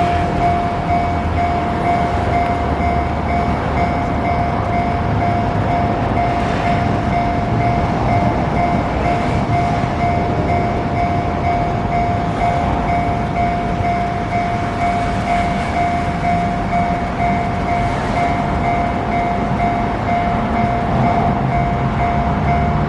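Tram running at steady speed: an even rumble of wheels and running gear with a constant whine held throughout.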